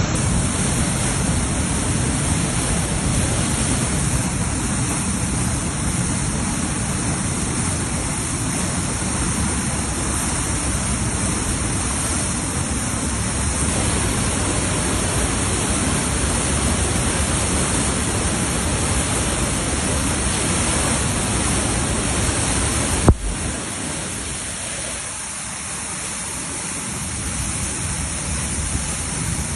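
Steady rush of floodwater, an even wash of noise with a deep rumble. A sharp click comes about three-quarters of the way through, after which the low rumble thins out.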